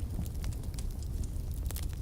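Fireplace fire burning with a low, steady roar under scattered sharp crackles and pops, a few louder pops near the end.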